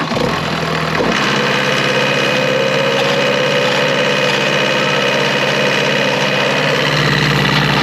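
Skid steer's engine just started, settling about a second in into a steady idle.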